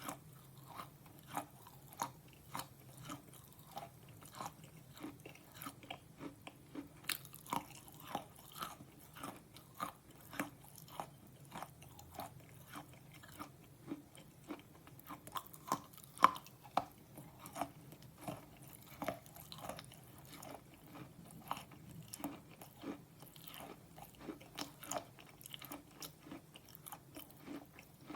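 Slate pencils being bitten and chewed close to the microphone: a steady run of short, brittle crunches, about two or three a second, with one louder crack partway through.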